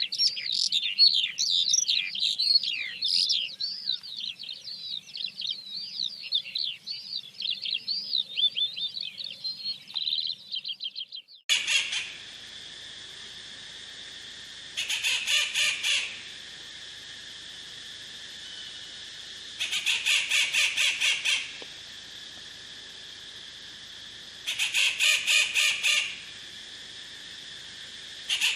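Wild birds singing: a fast, continuous, varied twittering song for the first eleven seconds. Then come short bursts of rapid repeated notes, about every five seconds, over a steady background drone.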